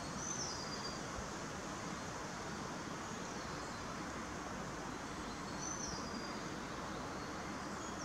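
Steady outdoor background hiss, with a bird giving a short high whistle that drops in pitch, twice, about five seconds apart.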